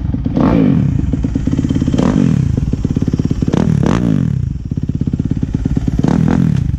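Small pit bike engine running close by, its revs rising and falling several times as the throttle is worked.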